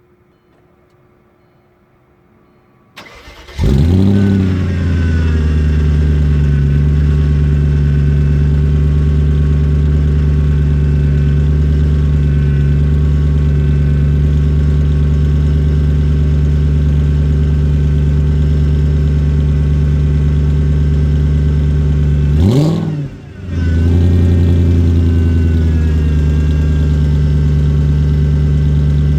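Turbocharged Audi V8 cold-starting: a short crank about three seconds in, a quick flare of revs as it catches, then a loud, steady cold idle. Near the end the engine note drops away sharply for under a second and then picks straight back up.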